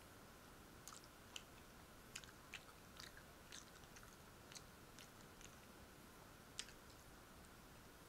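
Faint chewing and wet mouth clicks of a person eating sweet Italian sausage: a scattering of short, sharp smacks over a low hiss.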